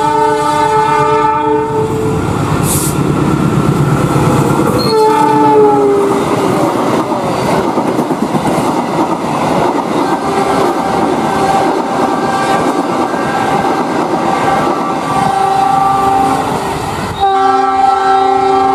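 CC206 diesel-electric locomotive passing at speed, its horn sounding at the start and again about five seconds in, when the horn's pitch drops as it goes by. Then the coaches rush past with a loud rolling roar and wheel clatter over the rail joints.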